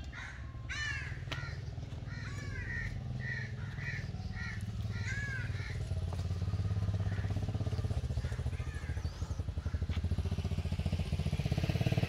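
A bird calls repeatedly, about eight short arched calls in the first half, over a steady low rumble that grows louder in the second half.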